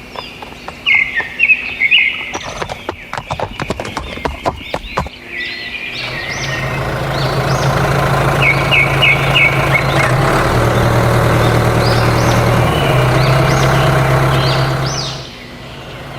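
Birds chirping throughout, over a quick series of clicks and knocks in the first few seconds. About six seconds in, a small motor starts running steadily; it dips in pitch for a couple of seconds, comes back up, then cuts off near the end.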